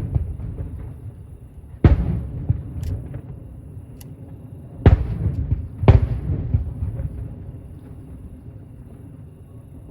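Distant aerial firework shells bursting: three sharp booms about two, five and six seconds in, each trailing off in an echoing rumble, with faint crackling between them. The bursts die away over the last few seconds.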